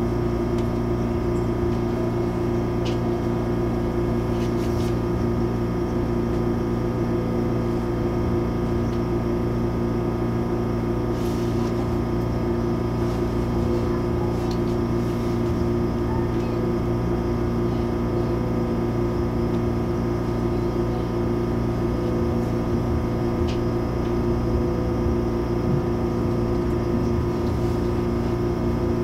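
Steady hum inside the passenger cabin of an MTR Airport Express CAF train: a few fixed tones over a low rumble, unchanging throughout, with a few faint clicks.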